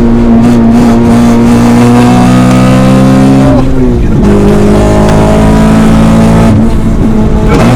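Honda Civic Type R (FN2) K20 four-cylinder engine pulling hard under load. The engine note breaks and dips twice, about three and a half and seven seconds in, as gears are shifted.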